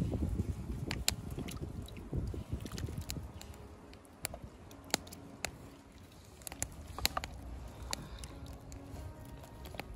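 Hot soup being ladled from a pot into a bowl: scattered light clinks of the ladle against the metal, with wet sloshing and dripping of the broth. Low wind rumble on the microphone in the first few seconds.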